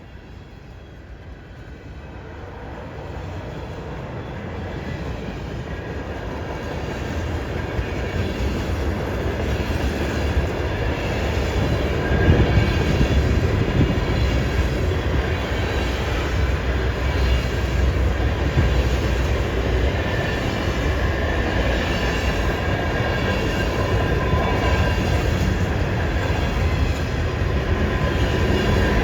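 Diesel-hauled freight train coming closer and growing louder over the first twelve seconds or so, then passing steadily. The locomotives' engines rumble low, and the wheels click and squeal on the curve.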